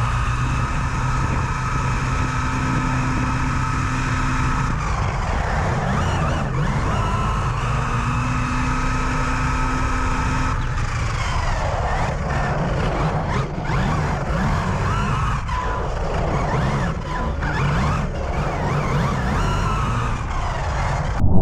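A large electric RC car's high-pitched motor whine, rising, holding steady for a few seconds, easing off and rising again, then wavering up and down as the throttle changes, over a steady rumble of tyres and wind.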